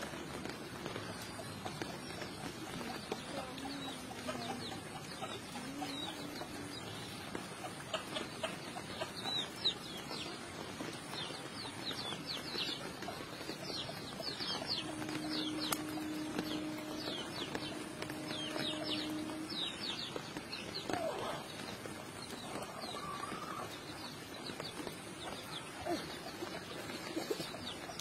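Small birds chirping in runs of short, quickly falling high notes, heaviest in the middle of the stretch, over a steady outdoor background hiss.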